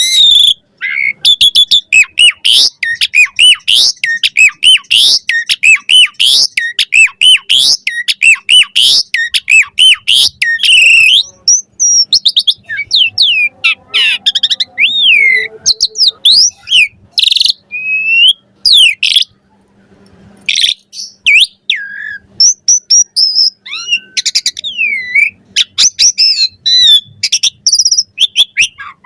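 Asian pied starling (jalak suren) singing its varied chattering song: a fast run of whistles, squeaky sweeps and clicks, then after a short break more spaced-out whistled notes with brief pauses.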